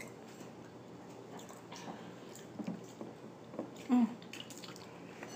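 Faint, wet chewing and small mouth sounds of people eating a seafood boil of corn on the cob and crab, with a few soft clicks and a short louder sound about four seconds in.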